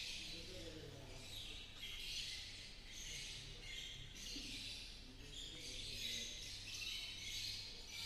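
Faint high-pitched bird chirping that comes and goes in short repeated phrases, over a steady low hum.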